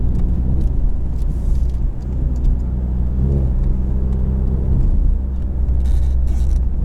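2020 Ford Mustang EcoBoost's 2.3-litre turbocharged four-cylinder running through its active valved performance exhaust as the car is driven, a steady, loud low drone that shifts a little in pitch, heard from the driver's seat.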